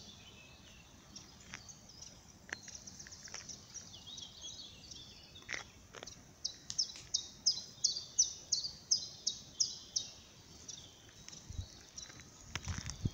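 Songbirds calling: short high chirps, scattered at first, then a quick run of about three a second from about halfway in, over faint outdoor background noise.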